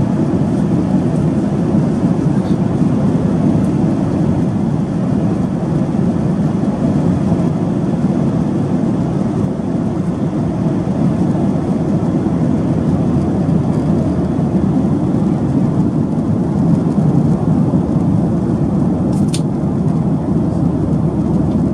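Steady cabin noise of a Boeing 737-800 in flight: the even rush of airflow and engine noise. There is one short click about 19 seconds in.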